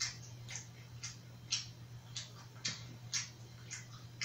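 A person chewing a mouthful of food, with short wet mouth clicks at an even pace of about two a second.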